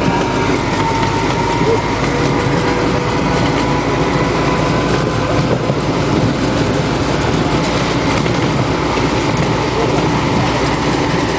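Miniature park train running along its track, a steady rumble of wheels on rails with faint clickety-clack and a thin steady tone above it.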